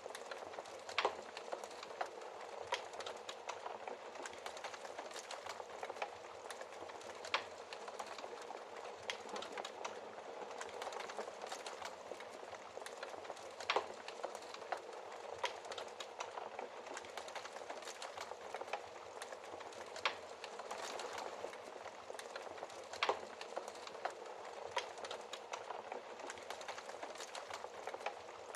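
Wood fire burning in a fireplace: a steady soft hiss and crackle with sharp pops at irregular intervals.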